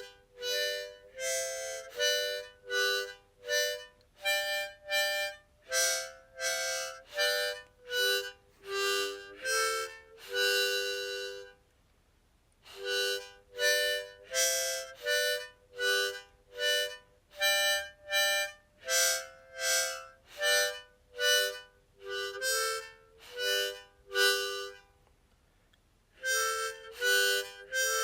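Background music: a harmonica melody in short, separate notes, with two brief pauses, one about halfway through and one near the end.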